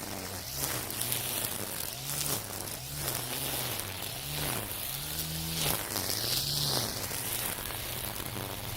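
Battery-powered string trimmer with nylon line (Makita 40V split motor) cutting dense overgrown weeds. Its motor pitch sags and recovers about once a second as each sweep loads the line, and the whipping line rasps through the stems.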